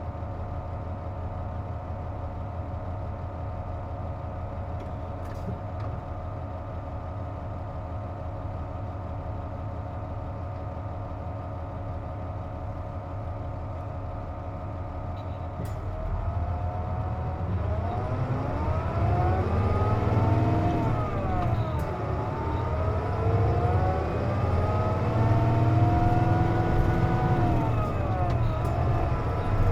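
KC-JP250NTN bus engine heard from inside the cabin with the air conditioning running, which the uploader says gives this bus its abnormal whine. It idles steadily with a constant whine. About 16 seconds in it pulls away and gets louder, its pitch climbing and dropping several times through the gear changes.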